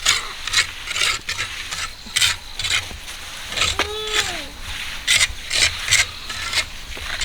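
Repeated scraping strokes of a tool working wet concrete or gravel for a farm road, irregular at about one to two a second. A brief call that rises and falls comes about four seconds in.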